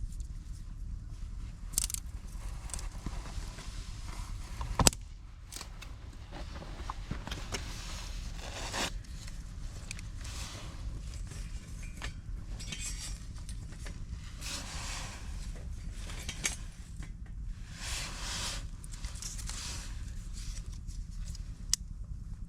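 Wood campfire with scattered crackles and pops, the sharpest about five seconds in, amid short rustling and scraping sounds, over a steady low rumble.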